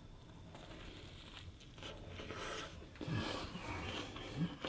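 A person biting into and chewing a bacon-cheddar turkey burger in a bun, with quiet wet chewing sounds and a couple of short closed-mouth hums in the second half.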